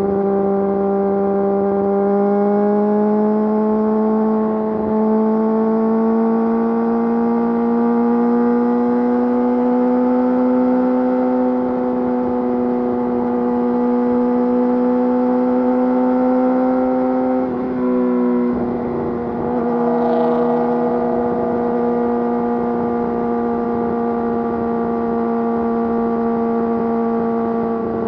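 Yamaha YZF-R6 inline-four engine through an Akrapovič full exhaust system, running under way at steady throttle with its note slowly climbing. About two-thirds through there is a brief dip in the note, then it holds steady at a slightly lower pitch.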